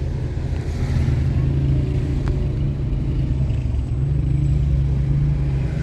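Car engine running steadily while driving, a low, even hum.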